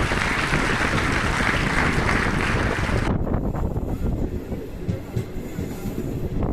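Train running on the rails, a steady loud noise. About three seconds in, the bright hiss cuts off abruptly and leaves a duller, lower rumble.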